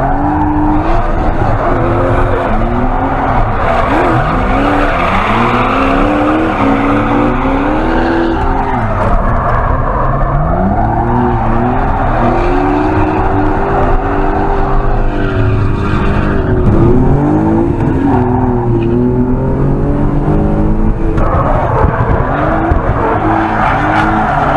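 Engine of a BMW E46 Compact drift car revving up and falling back again and again through the slides, heard from inside the cabin, with tyres squealing and skidding.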